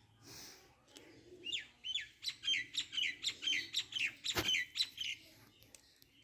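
A small bird singing a fast run of short, downward-sweeping chirps, about five or six a second, starting a second and a half in and stopping about a second before the end. A single sharp knock comes about four seconds in.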